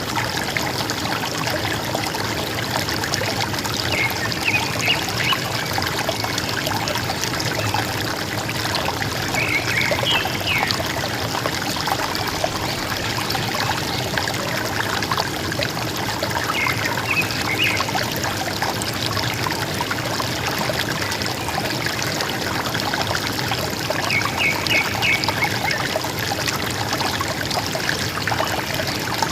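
A river running over stones with a steady gurgling and trickling, and a bird giving a short burst of chirps four times, about every seven seconds.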